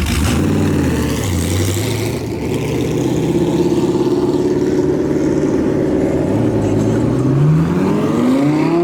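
A performance car's engine revving as it pulls away. The pitch drops early on, holds steady through the middle, then climbs steeply over the last two seconds under hard acceleration.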